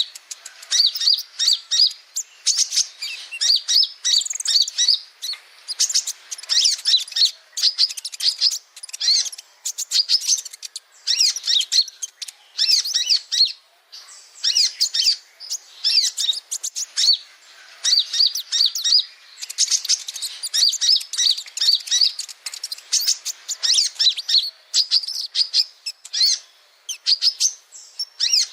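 Male kolibri ninja sunbird singing: quick, high, twittering chirp phrases repeated in bursts with brief pauses between them.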